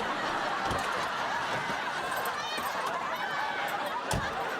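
Sitcom studio audience laughing, many voices together, after a punchline, with two brief low thuds, one near the start and one near the end.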